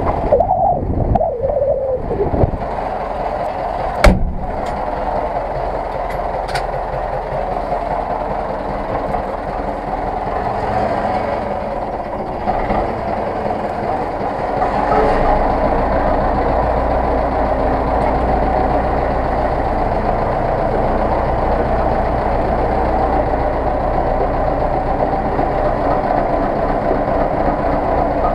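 Zetor 6911 tractor's four-cylinder diesel engine running steadily, with a sharp knock about four seconds in; from about halfway it grows louder and deeper.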